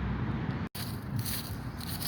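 Steady low rumble of road traffic, broken off by an abrupt cut under a second in, followed by irregular scraping and crackling noise.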